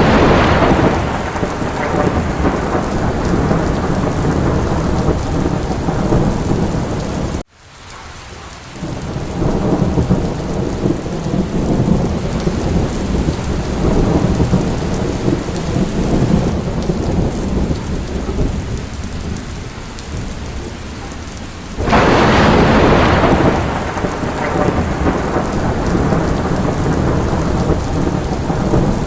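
Heavy rain with thunder: a thunderclap breaks right at the start and another about two-thirds of the way through, each fading into a low rolling rumble that carries on under the rain. The sound cuts out for a split second about a quarter of the way in.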